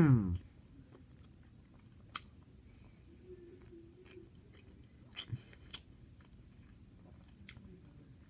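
A person biting into and chewing a soft flour-tortilla wrap. Quiet mouth and chewing sounds, with a few sharp smacks about two seconds in and again around five seconds in.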